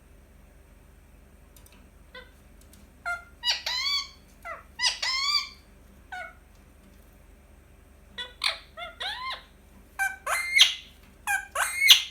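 Indian ringneck parakeet calling: after a quiet start, short pitched calls come in a few groups, then quicker from about two-thirds of the way in, several sweeping up in pitch.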